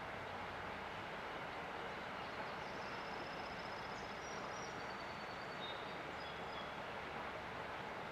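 River water rushing steadily, with a small bird singing over it: a high, rapid trill about three seconds in, then a few short whistled notes, each lower than the last.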